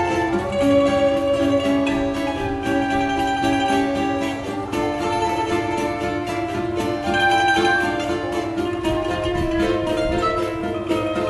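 Choro ensemble playing: plucked string instruments carry melody and chords over a steady percussion rhythm.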